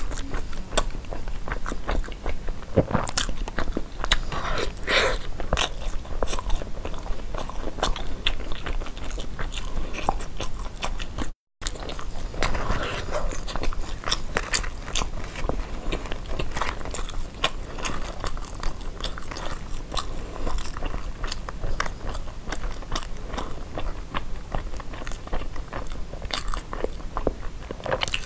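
Close-miked biting and chewing of a sticky-rice zongzi: a dense, irregular run of wet mouth clicks and smacks. The sound cuts out completely for an instant about eleven seconds in.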